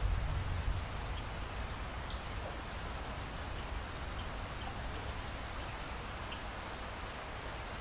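Steady rain falling, an even hiss with a few scattered drop ticks. A low rumble underneath fades out within the first second.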